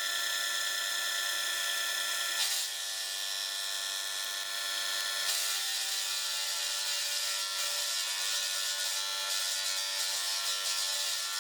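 A power tool running steadily on metalwork, with a high whine of several tones and a hiss of cutting or rubbing over it; the tone shifts abruptly twice, a few seconds apart.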